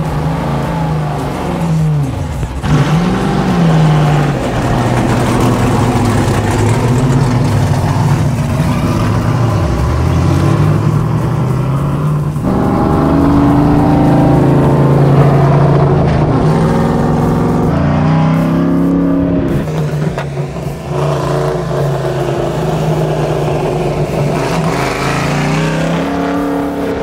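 Straight-piped big-block V8 of a 1969 Camaro Z28 race car under way, heard from on board, revving up and shifting so that its note climbs and drops several times, then holds high and steady for a stretch before easing off and rising again near the end.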